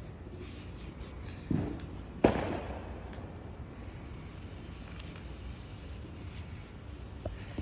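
Firework going off: a dull pop about one and a half seconds in, then a sharp, loud bang just after two seconds. Crickets chirp in a steady high note throughout.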